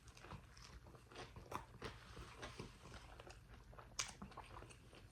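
Biting into and chewing a fried chicken slider close to the microphone: faint crunchy chews with scattered crisp clicks, and one sharper crunch about four seconds in.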